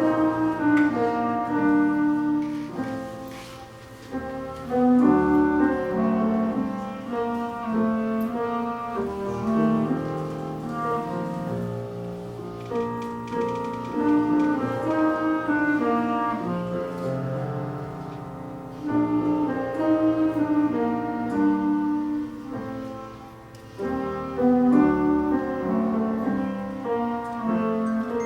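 Clarinet and piano playing together: a melody of long held notes on the clarinet over piano accompaniment, in phrases that swell and fall back.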